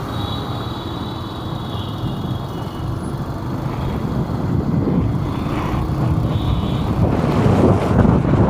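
Street traffic: the steady rumble of passing motor vehicles, growing louder toward the end.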